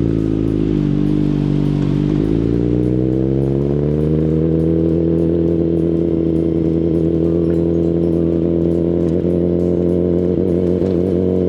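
Kawasaki Ninja ZX-10RR inline-four engine with an Akrapovic full-system exhaust running at low, steady revs, near idle. Its pitch dips slightly about two seconds in, creeps up a little, then holds steady.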